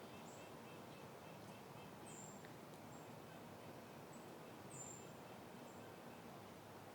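Soft, faint wind in foliage, with a small bird giving short, very high, falling chirps every second or two.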